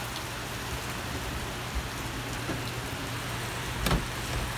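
Heavy thunderstorm rain pouring steadily with a dense hiss. A sharp knock sounds just before the end.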